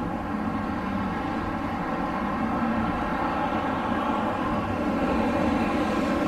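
Steady rushing wind with a hum running through it, growing a little louder near the end.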